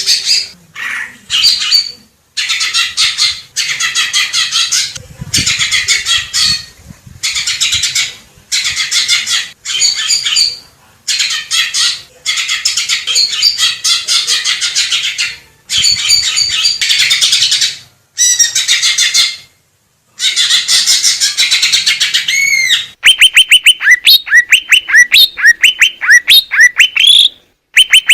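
Green leafbird (cucak ijo) singing: loud, dense, varied chattering phrases broken by short pauses, then near the end a fast run of repeated sweeping whistles, about five a second.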